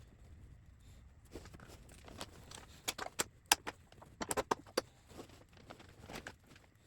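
Metal mounting hardware and a crash-bar bracket being handled: a series of sharp clicks and clinks, bunched most thickly about three to five seconds in.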